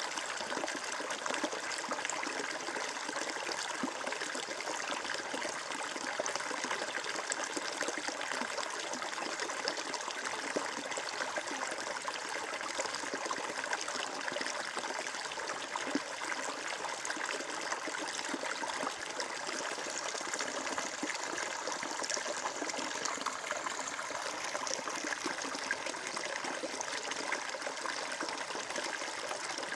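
Flowing water trickling and splashing steadily, like a small stream or brook running over stones.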